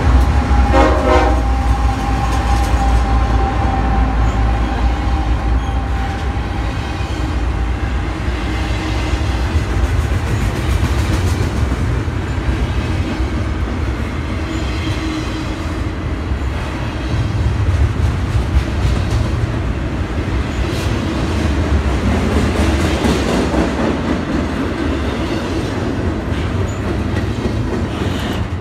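BNSF diesel freight train passing close by: the trailing locomotives rumble past, followed by double-stack intermodal container cars with a steady low wheel rumble and clatter on the rails.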